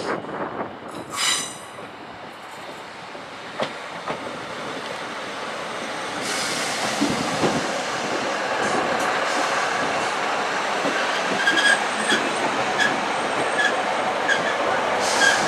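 Two coupled British Rail Class 153 diesel railcars arriving and running past along the platform, their underfloor diesel engines and wheels on the rails growing steadily louder as they draw alongside. A short high squeal comes about a second in, a few sharp knocks a couple of seconds later, and once the units are alongside there are repeated short high squeals over the running noise.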